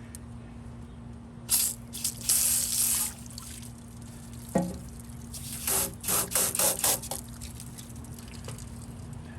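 Bar Keepers Friend cleanser powder being shaken out of its canister onto the sink in hissing bursts, the second burst a quick run of shakes, with a single knock between them.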